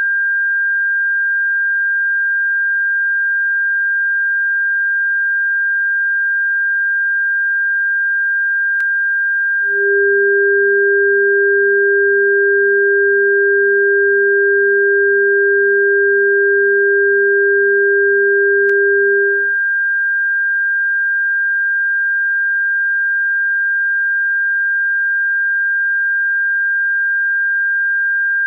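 Electronically generated steady sine tone, high-pitched and unbroken, played as a bird-repellent frequency. About ten seconds in a second, lower tone joins it for about ten seconds and then stops, with a faint click as it starts and as it ends.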